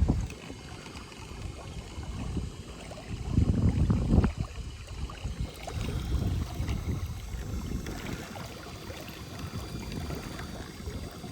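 Wind buffeting the microphone in uneven gusts, loudest about three and a half seconds in, over water moving against an inflatable boat under way on an electric trolling motor.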